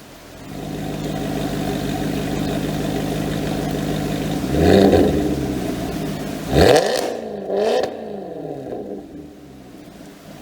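Maserati Quattroporte engine idling through a loud exhaust, blipped three times: one short rev about four and a half seconds in, then two quick sharp revs a second apart, each falling straight back to idle.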